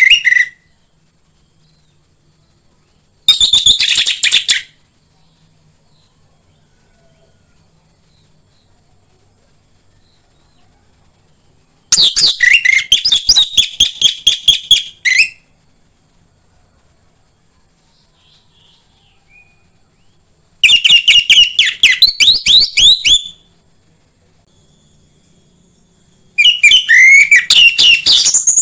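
Orange-headed thrush singing loud phrases of rapid, high notes, four phrases of about two to three seconds each with long pauses between them.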